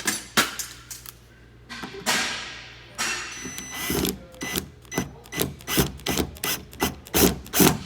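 Hand ratchet clicking as it drives in the outside door handle screw: a few sharp clicks at first, then from about three seconds in a quick, even run of ratcheting strokes, about four to five a second.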